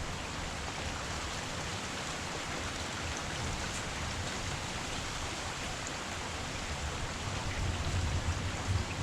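Heavy rain falling steadily, an even dense hiss of drops on surfaces. A low rumble builds underneath over the last couple of seconds.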